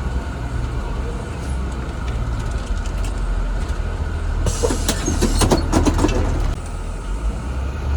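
Cabin of a 2017 Blue Bird Vision school bus under way: steady engine and road rumble, with a louder burst of rattling from about four and a half to six and a half seconds in.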